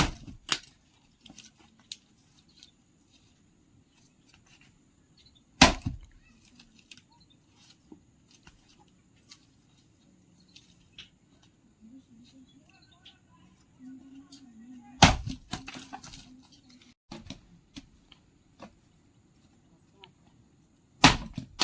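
Hard blows struck a few seconds apart, each a sharp single knock, with lighter knocks and clicks in between, as something is hit squarely to split or drive it.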